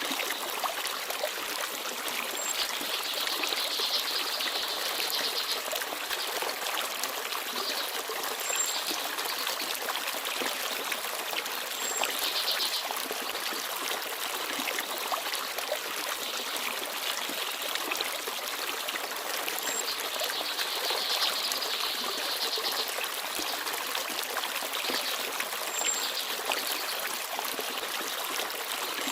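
Forest stream babbling and trickling steadily. Faint, very high short chirps of small birds come every few seconds.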